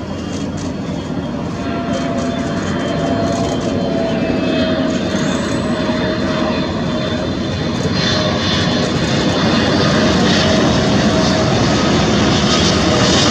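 Jet noise of a Boeing 777F freighter's twin GE90 turbofans as it comes in to land, a steady rushing roar with a faint whine that grows louder as the aircraft approaches.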